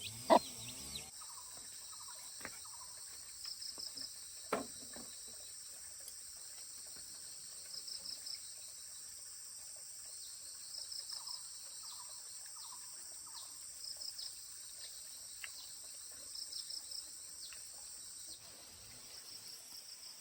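Insects calling outdoors: a steady high-pitched trill, broken every few seconds by short bursts of about four quick chirps. There are a few sharp knocks near the start and one about four and a half seconds in. The steady trill stops near the end.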